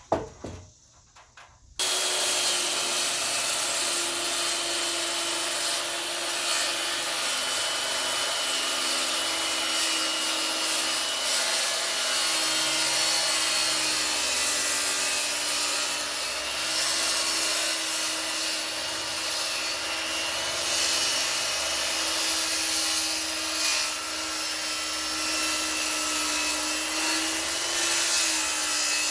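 Router on a router table chamfering the edge of a board. The motor gives a steady whine that wavers slightly as it cuts, over the rushing noise of wood being cut away. It starts suddenly about two seconds in.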